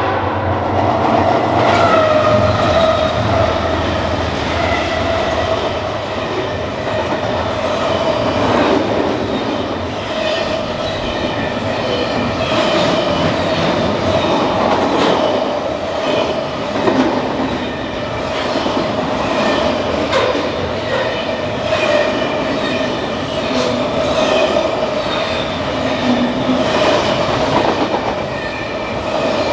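Double-stack intermodal freight train passing at speed close by: a continuous rush of wheels on rail with rapid clickety-clack and sharp clicks, over a steady metallic ringing tone.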